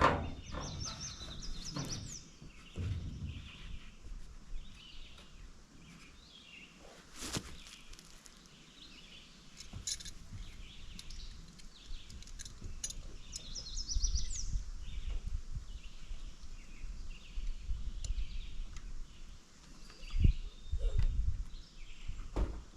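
Small birds chirping now and then with short rising calls, over low rumbling handling noise and a few sharp knocks about a third and halfway through.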